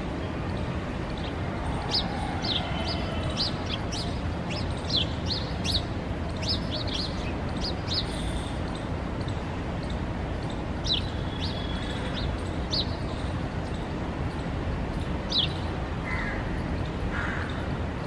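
Small birds chirping: many short, sharp, high chirps in scattered runs, dying out a couple of seconds before the end, over a steady low background rumble.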